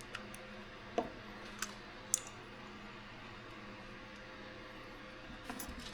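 A few light, sharp clicks and taps of small carburetor parts and hand tools being handled during work on an accelerator pump, spaced irregularly with a small cluster near the end, over a steady faint hum.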